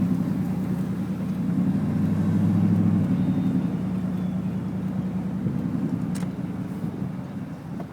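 Car engine and road noise heard from inside the moving car's cabin, a steady low hum that is strongest for the first three seconds and then eases off.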